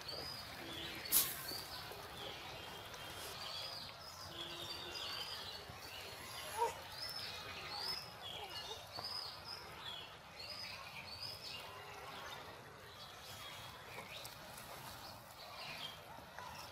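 A bird singing a long run of quick, repeated arched chirps. A sharp clink of a metal spatula against the metal cooking pan comes about a second in, and a couple of softer knocks follow, all over a steady low hiss.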